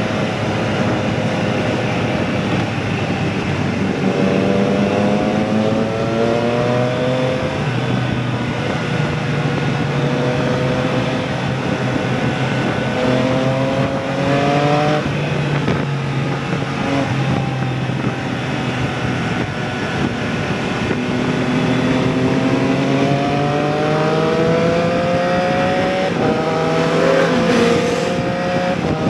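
Motorcycle engine under way, its pitch climbing as it accelerates, dropping back at each gear change or roll-off, then climbing again several times, over a steady rushing noise.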